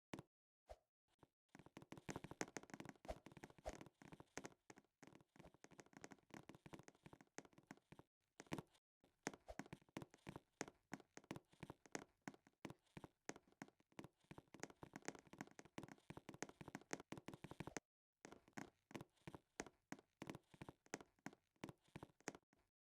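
Faint, rapid, irregular tapping and clicking, many small knocks a second, broken by two short pauses.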